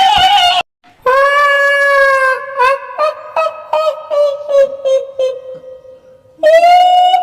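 Very high-pitched woman's voice imitating a kuntilanak ghost: long, held wailing notes, then a slow pulsing cackle of about three notes a second, and another long wail near the end.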